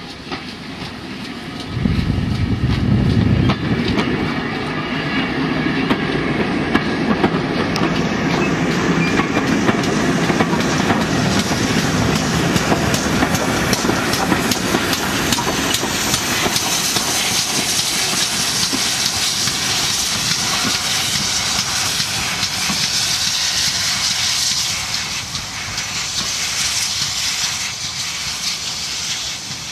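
Steam-hauled train of GWR coaches passing close by, its wheels clattering over the rail joints. The sound comes in abruptly about two seconds in and stays loud and steady, easing a little near the end.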